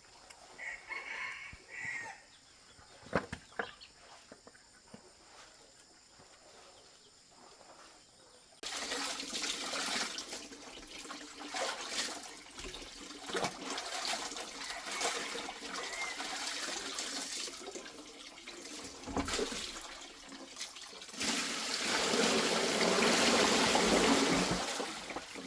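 Rushing water: a steady, noisy flow that starts abruptly about nine seconds in and grows louder near the end.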